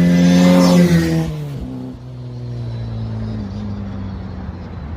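Freshly built classic Mini 1310cc A-series engine, with a fast road camshaft, running at high revs. About a second in, the revs drop and it settles to a steady fast idle, stepping down slightly a little past halfway.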